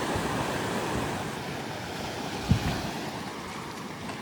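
Ocean surf washing onto the beach: a steady rush of breaking waves. A brief low thump comes about halfway through.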